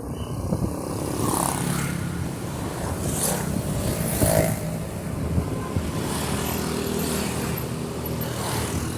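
Motor vehicle engine running steadily, over road noise.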